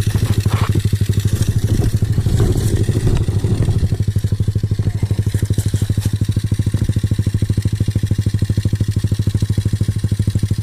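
Small pit-bike engine running at a steady, low idle-like speed with an even, rapid pulsing beat, with some irregular clatter over it in the first few seconds.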